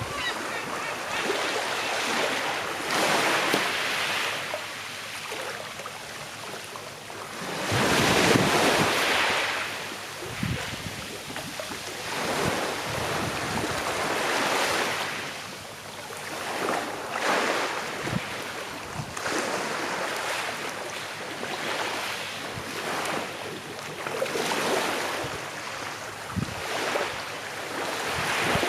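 Small sea waves washing onto a shore, swelling and falling away every few seconds; the biggest comes about eight seconds in.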